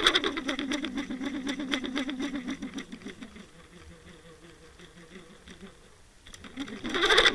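A motor heard muffled through the water on a towed underwater camera, running with a fast pulsing beat. It fades down midway, then surges loudly again for a moment near the end.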